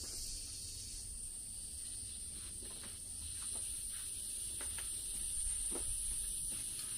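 Insects shrilling in a steady, high-pitched chorus.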